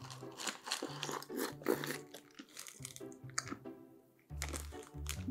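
Crunchy chewing of a mouthful of Skittles softened in Sprite, dense in the first couple of seconds and then sparser, over background music with a steady bass line.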